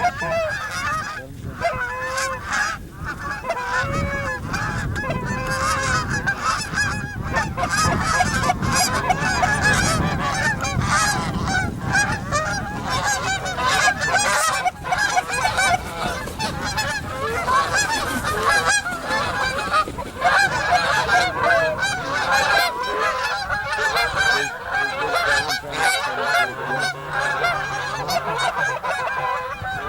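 A flock of geese honking continuously, many calls overlapping as the birds come in low.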